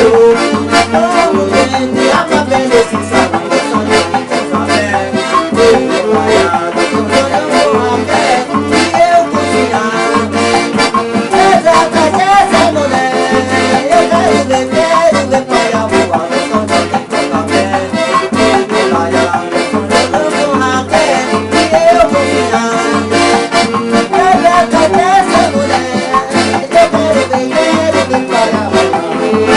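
Accordion (sanfona) playing a lively instrumental tune over a steady bass beat about twice a second, with bright percussion.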